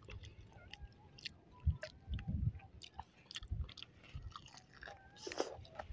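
A person biting into and chewing a crispy breaded, deep-fried balut egg, with scattered small mouth clicks and soft chewing thumps.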